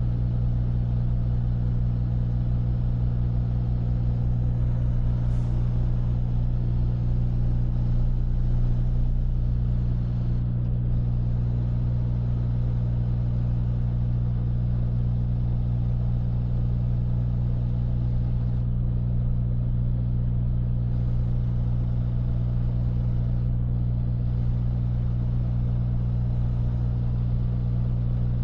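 Freightliner semi-truck's diesel engine running at a steady speed while driving, a constant low drone heard from inside the cab.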